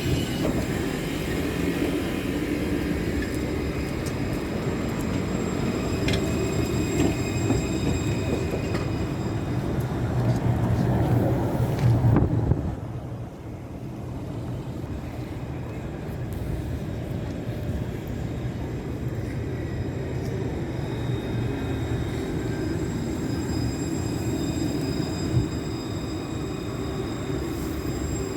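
Tram running on its rails with a steady low rumble. It grows louder up to about twelve seconds in, then drops off abruptly and carries on more quietly.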